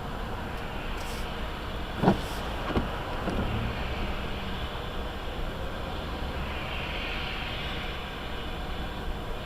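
Steady road and engine rumble of a moving vehicle, heard from inside the cab through a dash cam, with two short sharp thumps about two and three seconds in.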